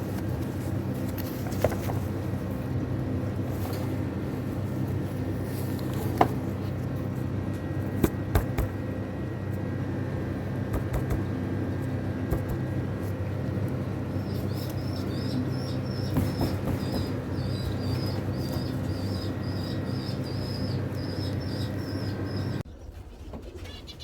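Pigeons cooing in a steady low layer, with scattered sharp clicks. A small bird chirps rapidly and high over it in the second half, and the sound drops abruptly to a quieter level near the end.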